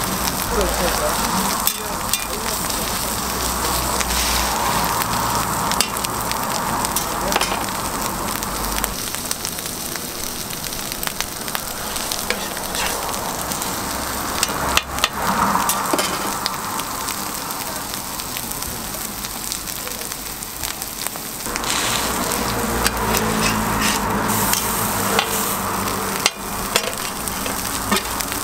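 Egg and ham patties frying in oil on a flat-top griddle, a steady sizzle with a few sharp clicks along the way.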